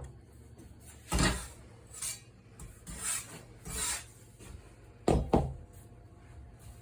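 Handwork at a soba-making station: a knock about a second in, four short scraping, rubbing swishes, then two knocks in quick succession a little after five seconds.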